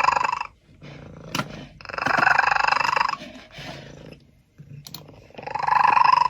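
Domestic cat making loud, drawn-out calls, three in all: one at the start, a longer one of over a second in the middle, and one near the end, with a quieter low sound between them.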